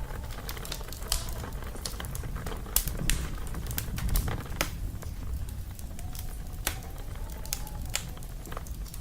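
Wood fire crackling, with irregular sharp pops over a low steady rumble. A faint, distant wolf howl rises and falls about six seconds in.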